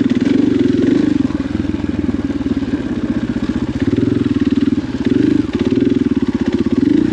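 KTM enduro dirt bike engine running at low to middling revs, the throttle opening and closing so the engine note rises and falls a few times.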